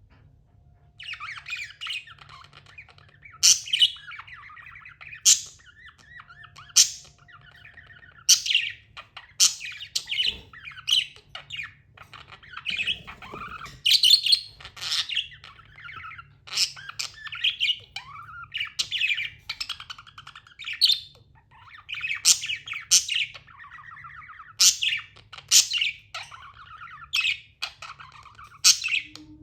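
Budgerigar chattering: a continuous warbling, scratchy chatter, broken every second or so by sharp, loud chirps and squawks.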